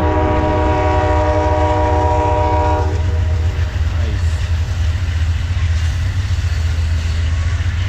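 Amtrak diesel locomotive's air horn sounding a held chord of several tones that cuts off abruptly about three seconds in, over the steady low rumble of the departing California Zephyr train.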